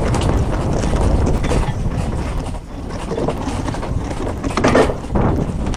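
Wind buffeting the microphone on a sailboat under way, a steady low rumble that dips briefly midway and swells near the end.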